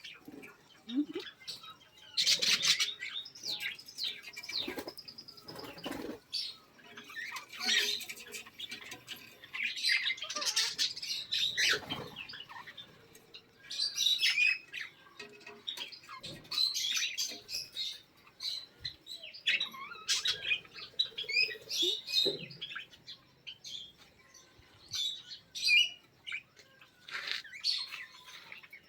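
Small cage birds such as budgies and finches chirping and squawking in a busy, irregular chatter, with short clicks and rustles among it.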